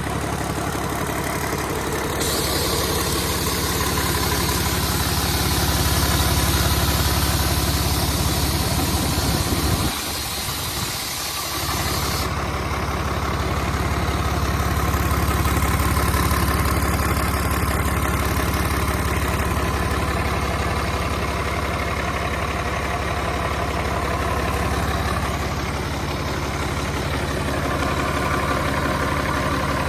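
Rebuilt Cummins QSL9 diesel engine running steadily on test. A high hiss rides over it from about two seconds in until about twelve seconds, and the low rumble briefly drops out for about a second and a half around ten seconds in.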